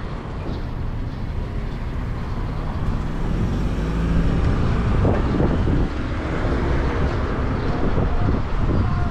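City street traffic: motor vehicles passing with a low rumble, one growing louder from about three seconds in and easing off about six seconds in.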